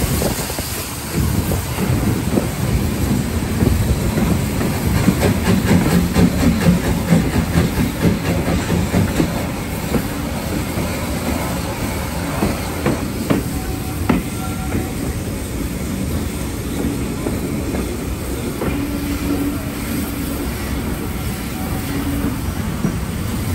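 Steam-hauled train running along the line, heard from the carriage behind the locomotive: wheels clacking over the rail joints over a steady rumble. It is louder and busier for the first ten seconds or so, then evens out.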